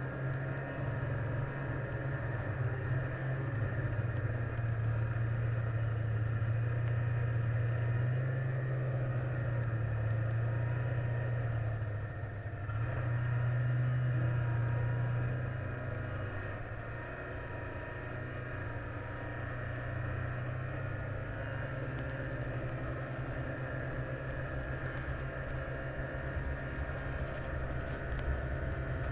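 Vehicle engine drone running steadily while under way, easing off briefly around the middle and then holding steady again.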